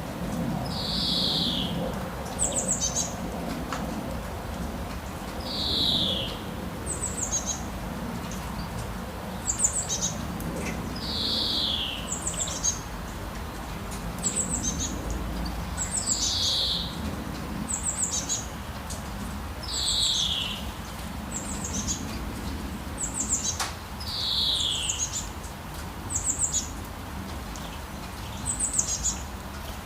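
Wild birds singing: one bird repeats a falling whistled call about every four to five seconds, with short high chirps between, over a steady background hiss.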